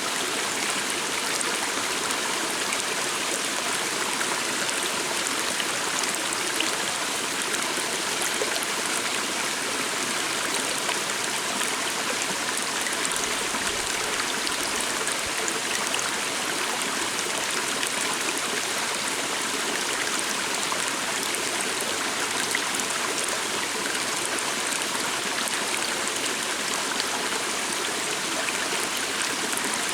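Calm water stream flowing steadily, an even rushing of water that holds without change.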